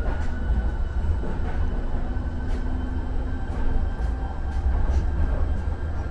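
Muni Metro light-rail car running on the rails, heard from on board: a steady low rumble with a faint thin high tone and occasional clicks.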